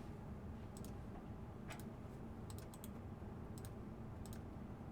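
Faint, scattered clicks from a computer keyboard and mouse, a few single and a few in quick pairs, over a low steady room hum.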